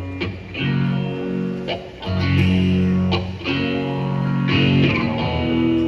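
Rock band playing live, with electric guitars strumming sustained chords in an instrumental passage between sung lines. The chord changes about every second and a half.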